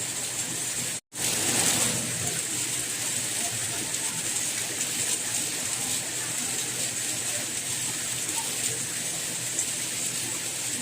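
Steady rain falling, an even hiss throughout. About a second in, the sound cuts out completely for an instant, then comes back slightly louder for about a second.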